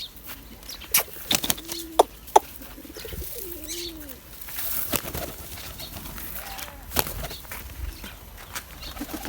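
Pigeons cooing, several low rising-and-falling coos in the first few seconds, among flapping wings and scattered sharp clicks.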